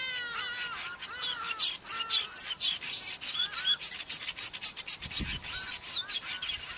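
Cape weaver chattering: a dense, fast run of clicks, short chirps and wheezy rasping notes. A brief low thump comes about five seconds in.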